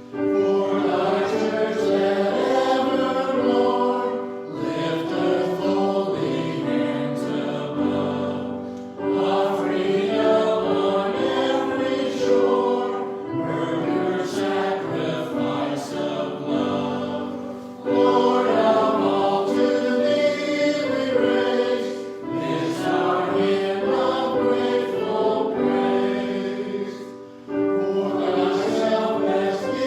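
Choir singing, in sustained phrases separated by short breaks.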